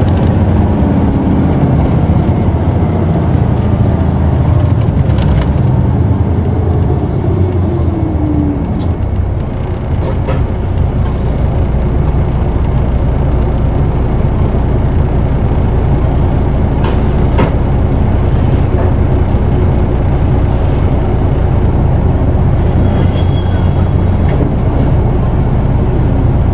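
Interior running sound of an Isuzu Erga city bus (PKG-KV234L2) and its diesel engine. The engine note falls away over the first eight seconds or so as the bus slows, then settles into a steady rumble, with a few short clicks.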